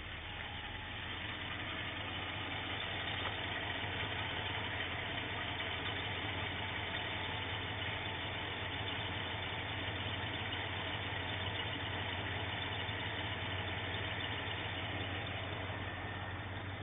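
AMC 360 cubic inch V8 engine idling steadily, running smoothly.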